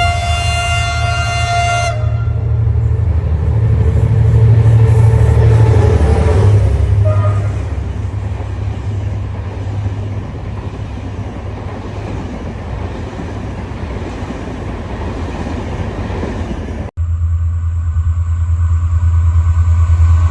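Diesel train sounding its horn in a chord for about two seconds, then running with a heavy low rumble that is loudest around five seconds in and then eases. A little before the end the sound cuts suddenly to a steady low diesel engine drone.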